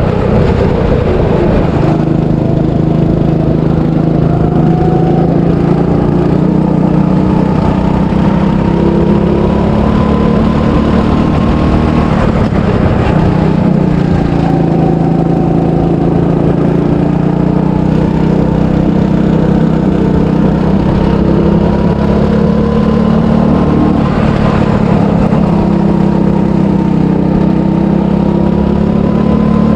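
300cc go-kart engine running hard through a lap, its pitch climbing steadily along the straights and dropping back sharply twice as the throttle comes off for corners.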